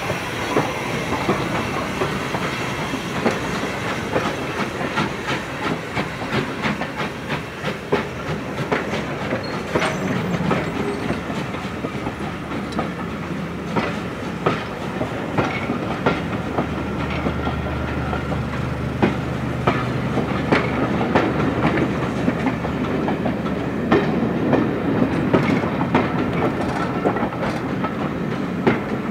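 Passenger coaches rolling past on jointed track behind a Hunslet Austerity 0-6-0 steam locomotive: a steady clickety-clack of wheels over the rail joints above a constant rolling rumble. A low steady drone joins about halfway through.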